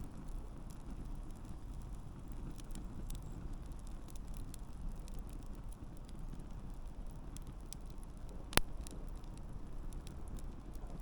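Wood campfire burning: a steady low rumble of flame with frequent small crackles of the burning wood, and one loud sharp pop about three-quarters of the way in.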